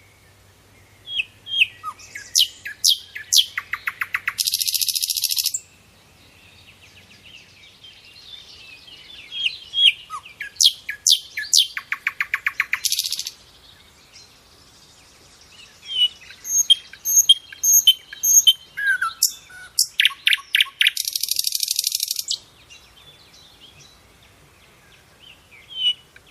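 A songbird singing three long phrases, each a run of sharp, high notes that ends in a fast rattling trill, with a few seconds' pause between phrases.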